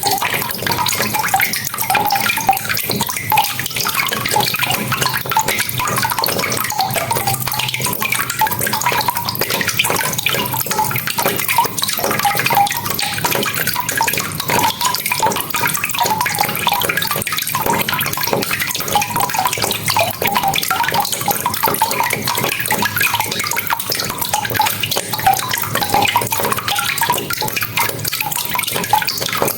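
Steady rain, with a dense patter of drops and water splashing and running.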